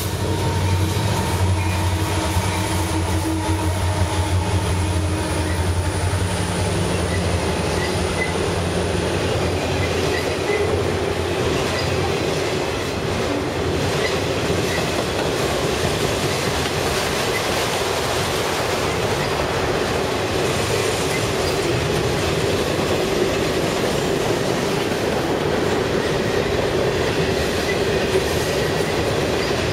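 A Canadian National train passing close by. The deep drone of its diesel locomotive is heard for the first ten seconds or so, then the steady rolling of the railcars' wheels on the rails.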